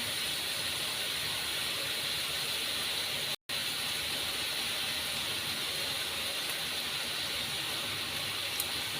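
Chicken and vegetables sizzling in a frying pan before the tomato sauce goes in: a steady hiss that cuts out for an instant a little over three seconds in.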